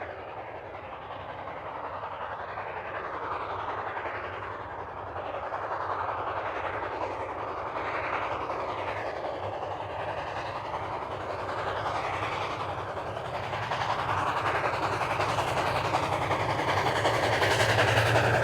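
Steam locomotive No. 4960, a 2-8-2 Mikado, working its train up a grade, its exhaust and running gear growing steadily louder as it approaches.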